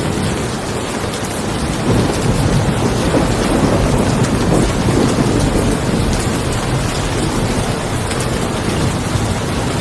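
Steady heavy rain with thunder: a low rumble swells about two seconds in and fades away by about six seconds.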